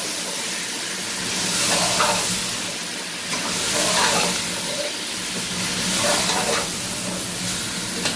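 Chicken pieces, tomatoes and spices sizzling in hot oil in a pot while a metal spoon stirs and turns them. The stirring swells about every two seconds over a steady frying hiss.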